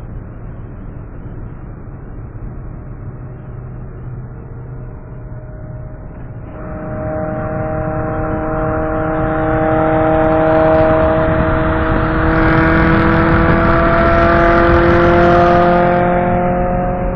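Second-generation Mitsubishi Eclipse's engine and exhaust accelerating hard alongside at autobahn speed, heard from inside a neighbouring car's cabin over steady road and wind noise. The engine note comes in about six seconds in and climbs slowly in pitch. It is loudest in the last few seconds, then eases off just before the end.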